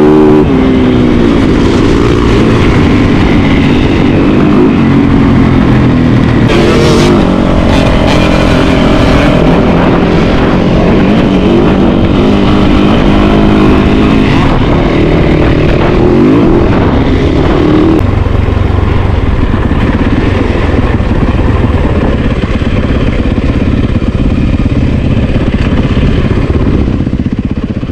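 Yamaha YZ450FX single-cylinder four-stroke dirt bike engine running under throttle, its pitch rising and falling as the rider revs and rolls off. After about 18 seconds it settles into a steadier rumble, then fades out near the end.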